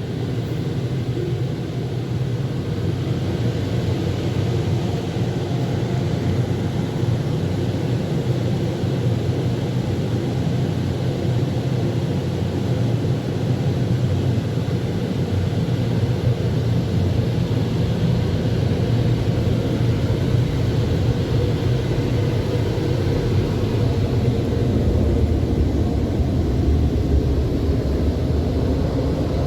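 Car wash air dryer blowers spinning up and then running at a steady, loud rush.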